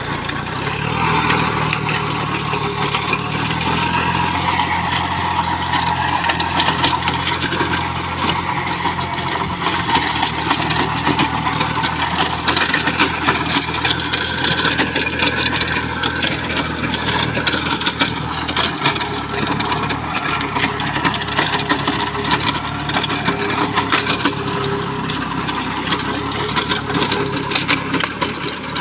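Small Kubota tractor's diesel engine running steadily under work, with a dense mechanical clatter over it; the engine note shifts slightly about two-thirds of the way through.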